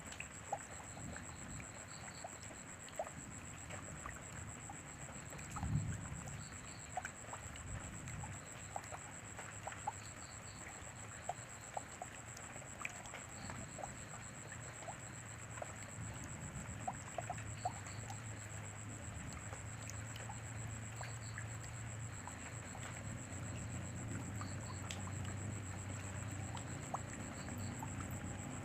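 Rain falling, with scattered individual drops tapping sharply over a soft steady hiss. A low rumble swells in the second half, and a thin high steady tone runs underneath.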